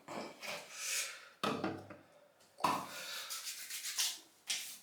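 Hands rubbing witch hazel toner into freshly shaved skin: several soft rubbing strokes with short pauses between them.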